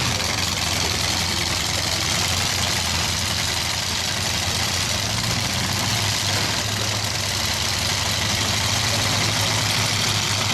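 Demolition derby truck engines running steadily, with no sharp crashes.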